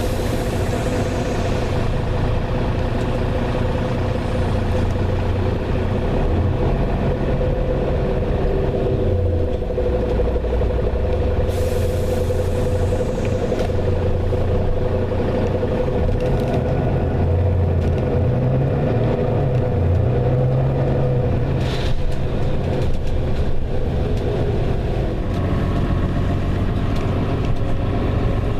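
Inside a moving bus, the diesel engine running with a steady low hum as it pulls along in traffic. Short hisses of air from the air brakes come right at the start and again about twelve seconds in.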